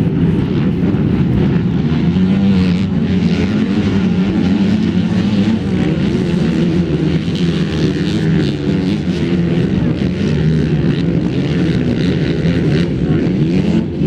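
Several 250 cc enduro motorcycle engines running and revving together, blending into a loud, continuous drone whose pitch wavers as the riders work the throttles.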